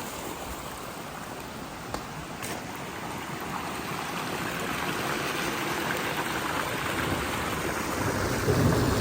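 Steady rain together with storm runoff flowing, an even hiss that slowly grows louder. A low rumble of thunder builds near the end.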